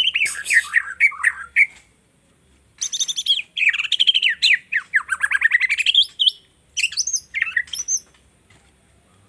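White-rumped shama (murai batu) singing: three bursts of rapid, varied song with fast trills and sweeping whistled notes, separated by short pauses, falling quiet about a second before the end.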